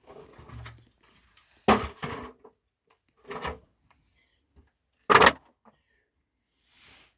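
A few sharp knocks, the loudest about two seconds in and again about five seconds in, with softer rustling in the first second.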